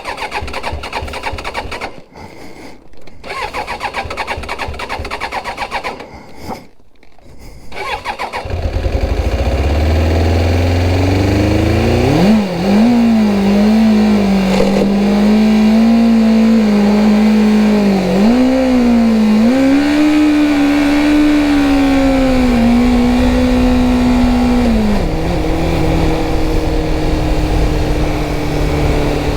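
Suzuki GSX600F motorcycle's inline-four engine sputtering and cutting out, then catching about eight seconds in. It then runs at raised revs that rise and dip unevenly before settling lower near the end. The engine is spluttering with a major loss of power, which the rider likens to something stuffed in the carburettors.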